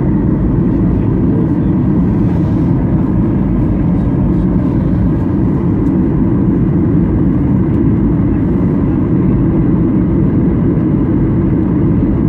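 Steady rumble of an airliner's engines and rushing air heard inside the cabin in flight, with a faint steady whine above it.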